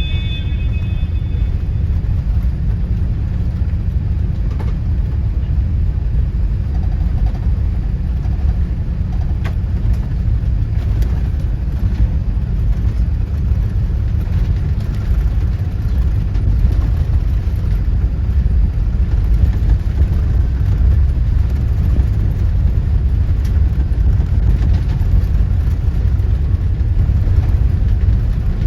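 Airbus A380 jet engines at takeoff power: a loud, steady, deep rumble that grows slightly louder from about halfway through.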